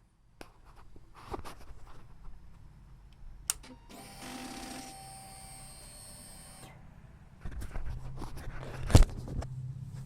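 Suzuki GSX-R1000 K3 with its end can removed being started. After a few clicks there is a steady electric whirr of about two and a half seconds. Then the engine cranks and catches with one loud sharp crack about nine seconds in, and settles into a low idle through the open exhaust.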